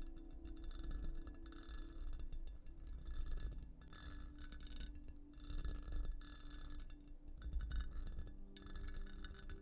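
Textured glass surface being scratched in repeated soft strokes, roughly one a second, with short pauses between them.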